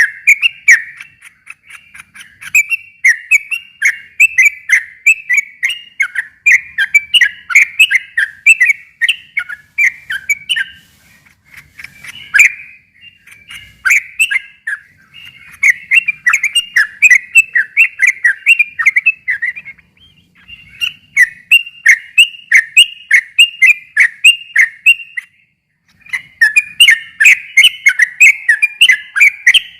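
Yellow-vented bulbul (trucukan) singing long, rapid runs of bubbly, chattering whistled notes, with a few brief pauses between phrases.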